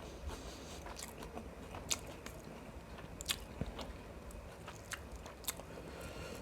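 Close-miked chewing and mouth sounds of someone eating biryani with mutton gravy, with scattered soft clicks, the sharpest about two, three and a half, and five and a half seconds in.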